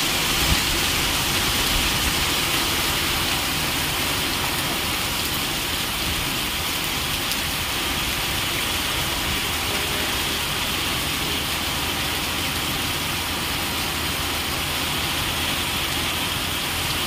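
Heavy rain falling steadily on wet ground and puddles, an even, unbroken hiss.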